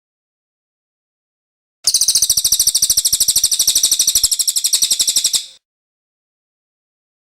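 Cililin bird singing one long, fast trill of evenly repeated high notes, about a dozen a second. It starts about two seconds in and lasts about three and a half seconds.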